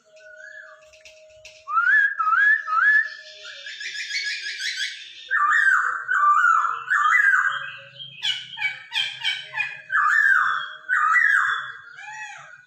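Poksay Hongkong (laughingthrush) song: loud, repeated whistled phrases with sliding notes, broken by rapid chattering trills. It starts strongly about two seconds in and continues in bursts.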